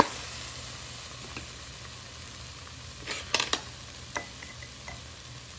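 Onion-tomato masala with spice powders sizzling gently in a pan. About three seconds in there is a quick cluster of sharp clicks from a metal spoon against the pan, and another single tick or two after that.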